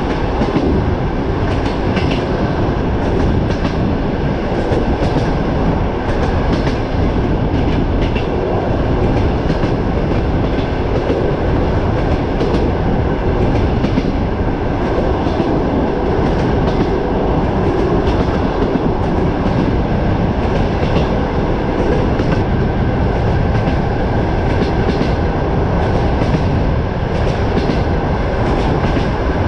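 Passenger train running at speed, heard at an open carriage window: a steady rumble of the train and rushing wind, with the wheels clicking on the rails now and then.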